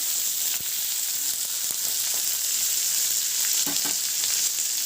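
Chopped tomato and carrot frying in hot oil with spices in a kadai: a steady, high sizzle, with a few light clicks from the stirring spoon.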